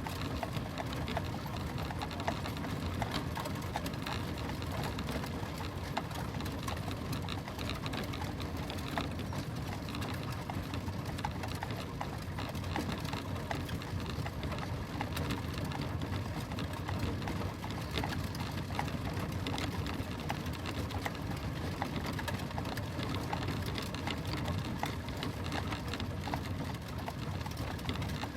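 Stagecoach drawn by four horses on the move: a steady low rumble of the rolling coach with a continuous clatter of hooves and small knocks.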